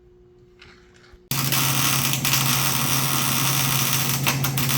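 Welding arc laying a bead on a steel sub-frame connector. It starts suddenly about a second in and runs as a steady hiss over a low hum.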